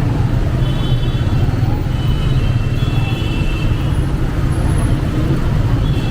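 125cc motorcycle engine running steadily while riding in city traffic, with the low rumble of engine and road noise throughout.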